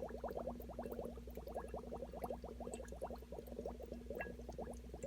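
Air bubbling through water in a small aerated algae-culture tank, a quick run of short rising bubble blips, several a second, over a steady low hum.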